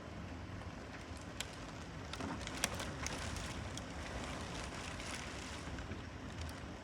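Hurricane wind gusting, swelling about two seconds in and easing off near the end, with two sharp ticks along the way.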